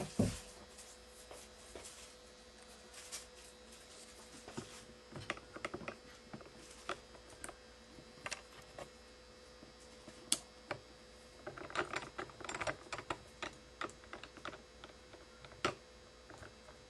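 Irregular small clicks, taps and knocks of a badminton racket being mounted on a stringing machine, its frame supports and clamps being set, with a knock at the very start and a quick run of clicks about twelve seconds in. A faint steady hum runs underneath.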